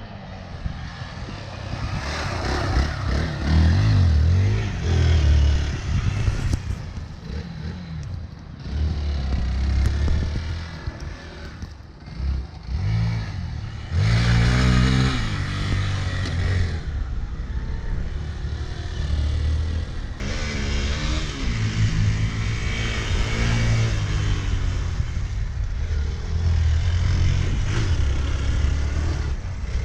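Triumph Tiger 900 Rally Pro's three-cylinder 900 cc engine through its stock exhaust, heard as the bike is ridden. It revs up and eases off several times.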